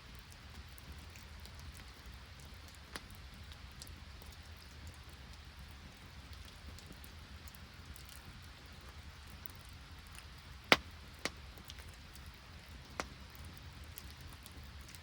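Light rain falling steadily, with scattered sharp ticks and one loud snap a little under eleven seconds in.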